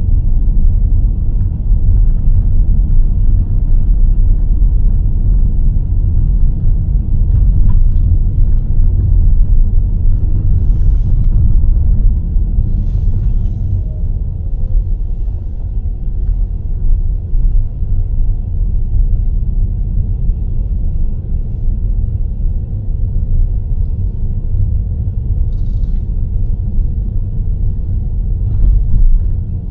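A car driving, heard as a steady low rumble of engine and road noise, with a few faint brief ticks or rattles now and then.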